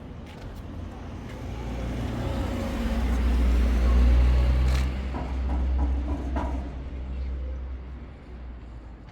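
Motor vehicle driving past: a low engine rumble that builds to its loudest about four seconds in and then fades, with a couple of light knocks along the way.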